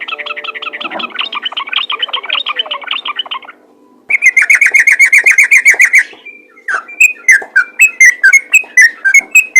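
Yellow-vented bulbul (trucukan) singing in its fast chattering style: a rapid run of repeated notes, a short pause about three and a half seconds in, then a louder rapid trill that breaks into loud spaced notes about three a second. A steady low hum lies underneath.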